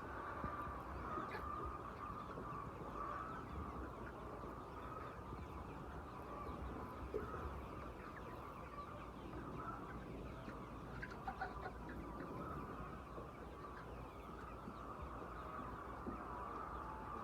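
A flock of chickens clucking all at once, a steady din of overlapping calls with a few sharper ones standing out, over a low steady rumble.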